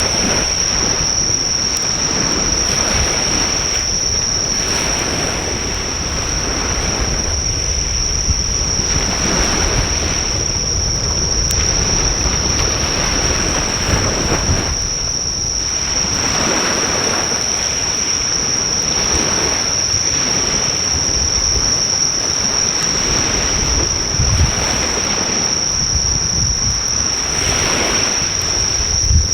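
Sea surf breaking on the shore in repeated swells, loud enough to almost hide the fire. Insects sing a steady, unbroken high-pitched trill throughout, and there is an occasional faint pop from the driftwood fire.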